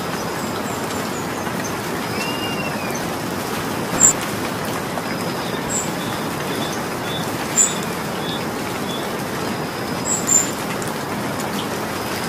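Steady rain falling, a continuous hiss. A bird calls over it early on and again with a short run of high notes midway, and there are three sharp ticks.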